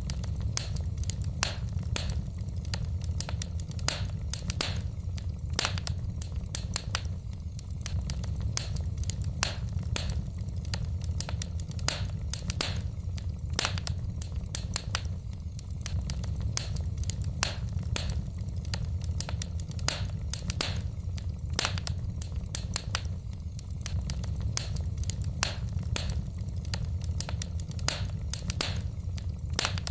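Wood fire burning in a fireplace: a steady low rumble with sharp, irregular crackles and pops of burning logs.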